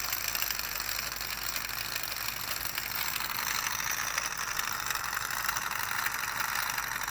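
Small Stirling engine running and driving a Lego gear train, a fast steady mechanical clicking and rattling.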